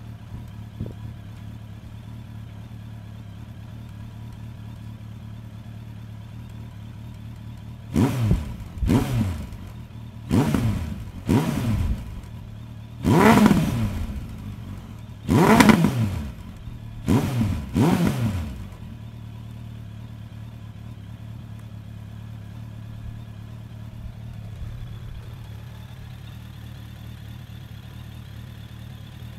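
2003 Suzuki Bandit 1200's inline-four engine, breathing through a Delkevic Stubby 14" carbon fiber oval muffler, idling steadily. About eight seconds in it is revved in a string of about eight quick throttle blips, each rising and falling back, and then it settles to idle again.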